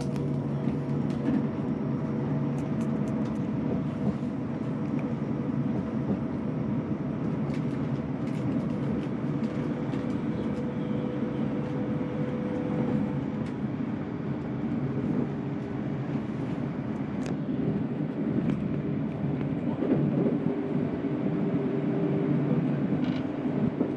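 Passenger train carriage under way: a steady rumble of wheels and running gear with a faint constant hum, and a few light clicks and rattles now and then.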